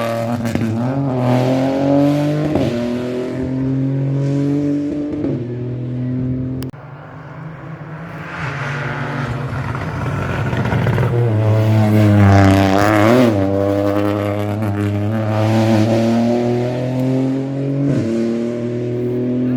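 Rally car engines at full throttle, revs rising and falling through gear changes. The sound drops off abruptly about seven seconds in, then another car comes up loud and revs hard past the middle of the stretch.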